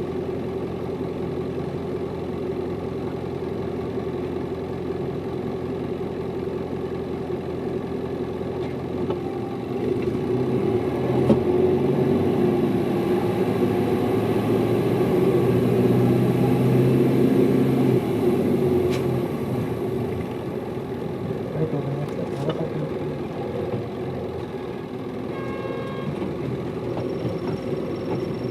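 Hino Liesse city bus's diesel engine running under way, heard from inside the passenger cabin. Its note grows louder about ten seconds in, holds for several seconds, then eases back. A few short high tones sound near the end.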